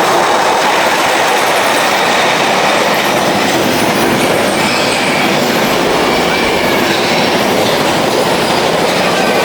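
Mine-train roller coaster cars rolling along their track: a steady, loud rumble and rattle of the wheels, with a few faint wheel squeals partway through.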